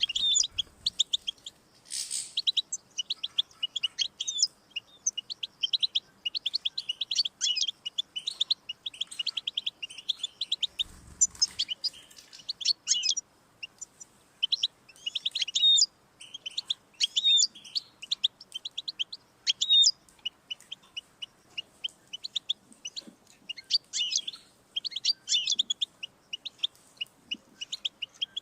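European goldfinch singing: a long, fast, twittering song of rapid chirps and trills, with only short pauses between phrases.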